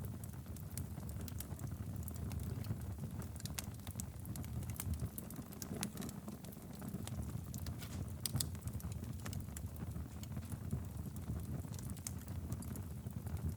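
Wood fire burning steadily in a fireplace, a low rumble of flame with frequent sharp crackles and pops scattered throughout.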